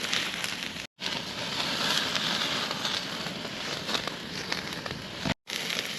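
Food sizzling and wood crackling over a campfire: a steady hiss with scattered sharp pops. The sound drops out to silence twice, briefly, about a second in and again near the end.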